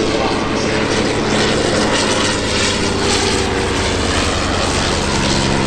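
Propeller aircraft engine running steadily in flight, a constant drone.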